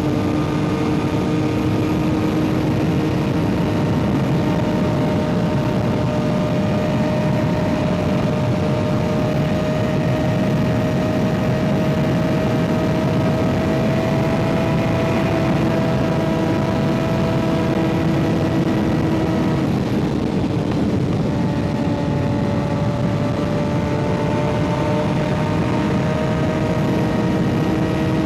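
Kawasaki ZX-6R 636's inline-four engine, fitted with an M4 aftermarket exhaust, running at a steady cruise with its note slowly rising. About two-thirds through the note breaks briefly, then comes back a little lower and climbs again, over a constant rush of wind and road noise.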